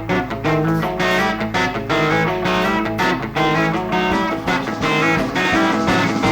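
Live rock band playing an instrumental passage: quick guitar notes over bass and a steady drum beat.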